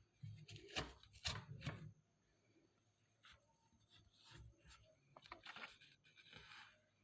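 Faint rustling and rubbing with a few light clicks, in two spells: the first two seconds or so, and again from about four seconds in.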